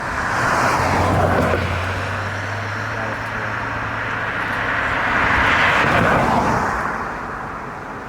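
Two vehicles pass one after the other, each a swelling rush of noise, the first about a second in and the second around six seconds. A steady low engine hum runs under the first few seconds.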